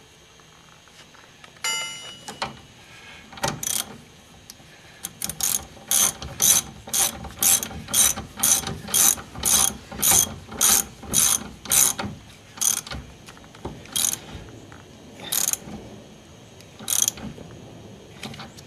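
Hand socket ratchet clicking as a nut on the steering tie rod is run down tight, about two strokes a second, then slowing to a few single strokes near the end. A short ringing metal clink comes about two seconds in.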